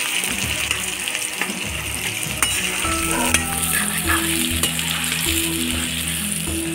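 Food sizzling steadily as it fries in hot oil, with the scattered clicks and scrapes of a spoon stirring the pan. A simple tune of low held notes comes in about three seconds in.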